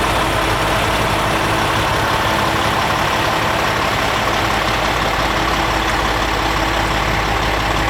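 A heavy engine idling steadily, with a constant low hum and a thin higher whine over a rushing noise.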